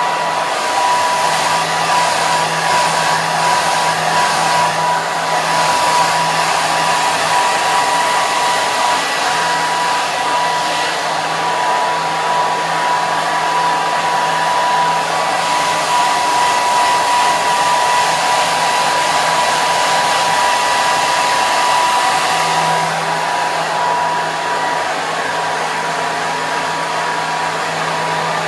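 Hair dryer running continuously: a steady rush of air with a constant high whine from the motor and fan.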